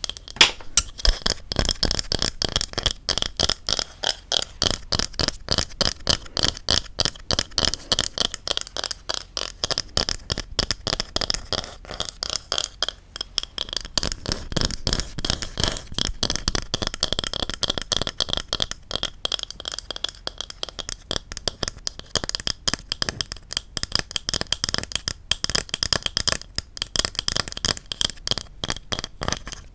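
Rapid, continuous tapping on a wooden object, several short taps a second at an even loudness.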